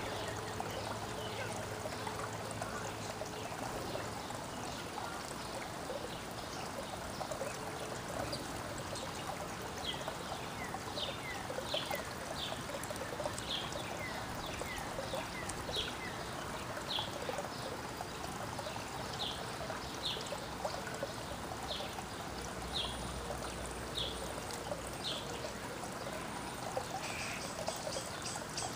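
Backyard songbirds over a steady background hiss: one bird gives a series of short, high, down-slurred notes about once a second through the middle, and a fast high trill comes in near the end.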